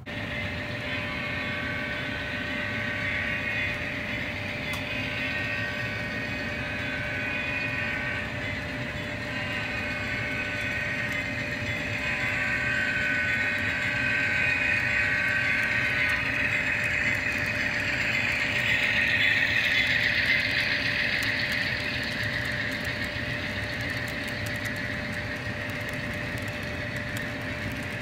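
A train running on rails: a steady hum with a constant tone and a hiss that grows louder towards the middle, then eases off.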